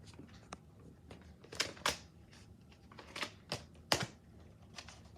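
Irregular clicks and taps of hand handling noise, about eight sharp ones spread over a few seconds, the loudest near the middle.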